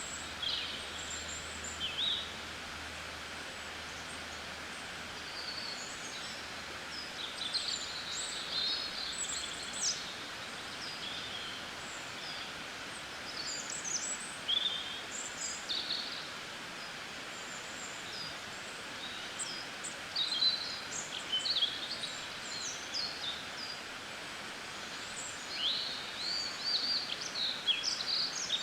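Several small birds chirping and twittering in short scattered calls, high-pitched quick notes coming and going over a steady background hiss, busiest around a third of the way in and again near the end.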